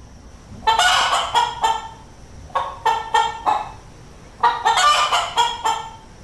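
Hen clucking in three quick runs of short, sharp clucks, each run lasting about a second.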